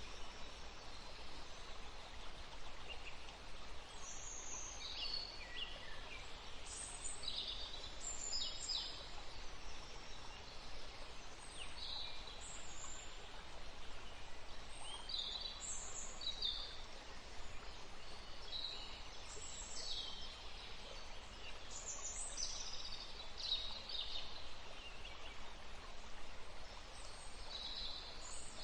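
Birds chirping: scattered short high chirps and trills, several every few seconds, over a steady hiss of background noise.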